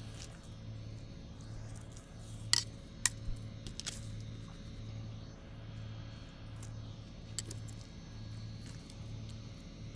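Several sharp clicks and snaps, bunched a few seconds in and again briefly near the end, over a steady low hum that pulses evenly, a little faster than once a second.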